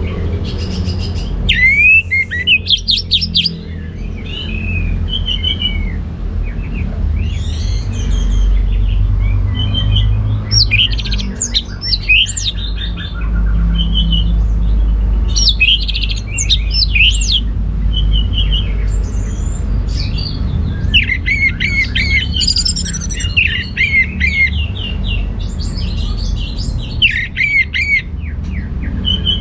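Orange-headed thrush singing its full song: phrase after phrase of fast, rising and falling whistled notes with short pauses between, over a steady low hum.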